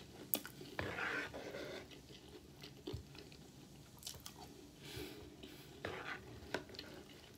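Chewing crunchy breakfast cereal, with a few faint clicks and scrapes of a spoon against the bowl as spoonfuls are scooped.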